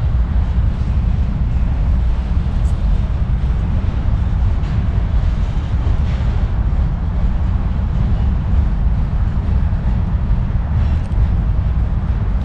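Steady low rumbling background noise, strongest in the deep bass, with no distinct events.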